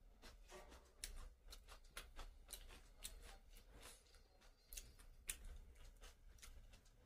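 Faint eating sounds: a person chewing a mouthful of rice and chicken, with a run of soft irregular clicks and smacks.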